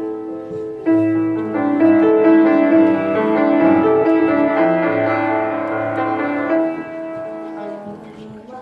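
Piano accompaniment playing an instrumental passage between the sung verses of a song: full chords that swell loud about a second in and drop back to a quieter passage about two seconds before the end.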